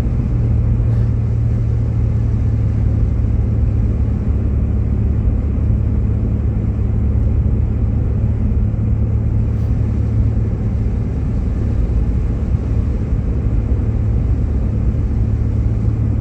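Steady low rumble of road and engine noise inside the cabin of a Jeep Grand Cherokee driving on a slick, snow-covered road.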